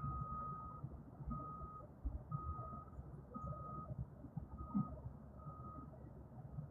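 A vehicle's reversing alarm beeping six times, about a second apart, each beep one steady high tone, over a low rumbling noise.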